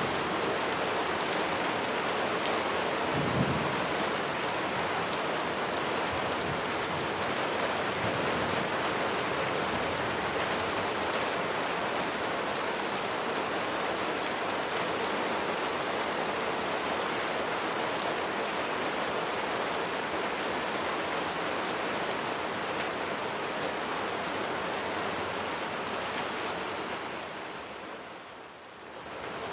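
Steady heavy rain falling, with a brief low rumble of thunder about three seconds in. Near the end the rain fades down for a moment and comes back.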